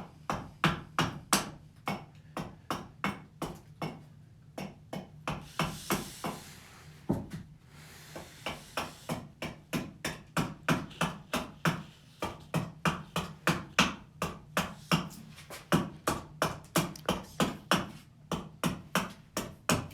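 Axe chopping a birch blank, a steady run of sharp wooden strikes at about two to three a second, briefly pausing partway through.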